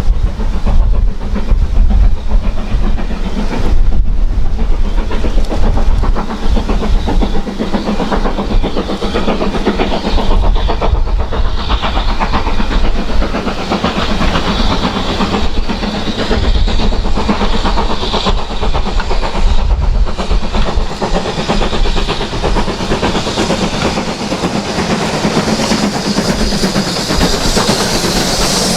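Steam locomotive and its train running past: wheels clattering over the rail joints, with a steam hiss that grows louder near the end.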